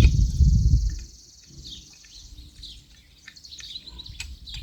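Birds chirping with short high calls throughout, over a steady high insect buzz that stops a little over two seconds in. A loud low rumbling noise fills the first second.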